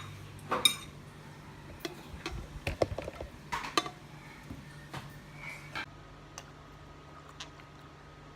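Scattered clinks and knocks of dishes and utensils being handled, busiest in the first four seconds, then only a steady low hum.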